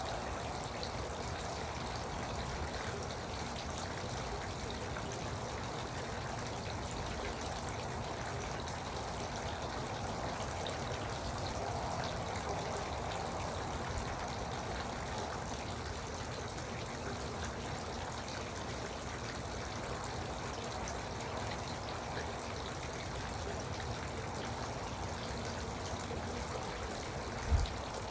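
Garden water fountain trickling and splashing steadily. A single brief low thump sounds near the end.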